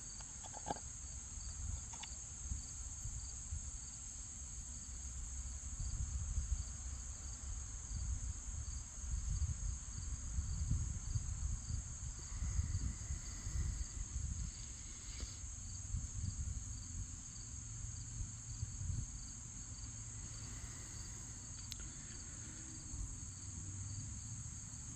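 Steady high-pitched insect chorus trilling without a break, with a faint regular pulsing under it. Uneven low rumbling on the microphone comes and goes, strongest in the middle.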